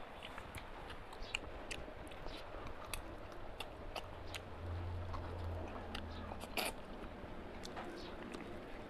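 Close-up chewing and biting of mutton and rice by mouth, with many wet clicks and smacks and one louder smack about two-thirds of the way through. A low hum sounds for about a second and a half past the middle.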